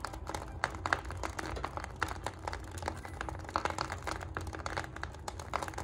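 Wood fire crackling in a fireplace lined with fire bricks: irregular sharp pops and snaps over a steady low rumble.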